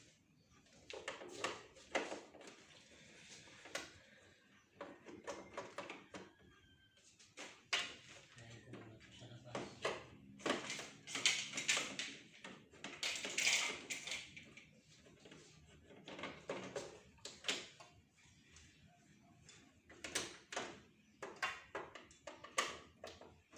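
Irregular clicks, knocks and light clatter as parts of a split-type air conditioner are handled, with short scraping or rubbing noises here and there.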